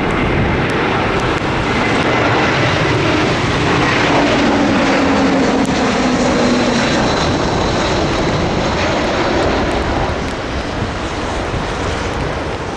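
Jet airliner passing on its landing approach, its engine noise swelling to a peak midway with a tone that falls slightly in pitch as it goes by. Strong gusty wind buffets the microphone.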